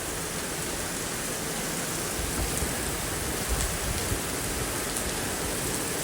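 Heavy rain pouring steadily in a strong storm, with gusty wind rumbling on the microphone.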